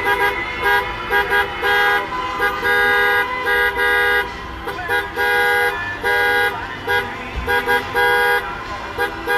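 Many car horns honking from circling vehicles: overlapping short toots and longer held blasts in several pitches, repeating without a break.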